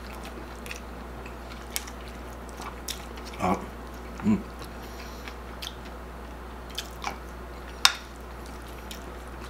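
Close-miked mouth sounds of a person chewing food, with small wet clicks throughout and two brief low vocal sounds a few seconds in. A single sharp click near the end, as a plastic spoon knocks the glass bowl.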